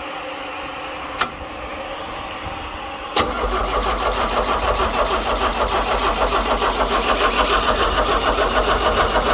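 Diesel engine of a John Deere 70 skid steer being started after glow-plug pre-heating: a sharp click about a second in, then about three seconds in the engine is cranked and turns over with a fast, steady pulsing that continues to the end.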